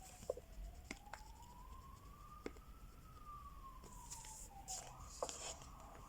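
Faint emergency-vehicle siren in a slow wail: the pitch falls, climbs for about two and a half seconds, falls again, then breaks into a quicker warble near the end. Crayon strokes scratch on paper and a few light taps sound over it.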